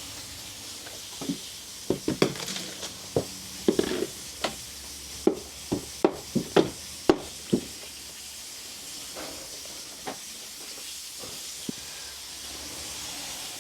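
Water running steadily from a pipe leaking just below its stop tap, a constant hiss, so the supply cannot be shut off there. About a second in come a dozen or so sharp knocks and clicks over several seconds, then a few more near the end.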